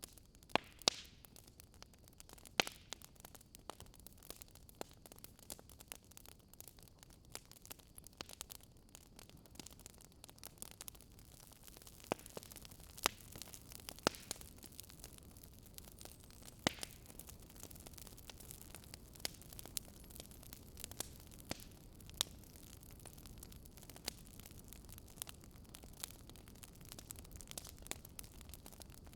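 Fire in a fireplace crackling: irregular sharp pops and snaps over a low steady hiss, with a few louder pops scattered through.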